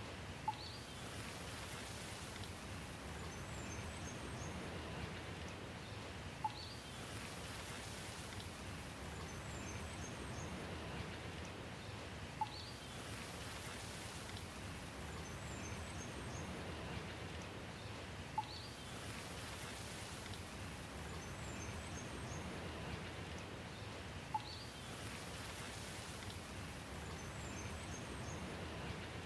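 Steady rain falling, with a short, sharp tick about every six seconds and faint high bird chirps between the ticks, repeating in an even cycle.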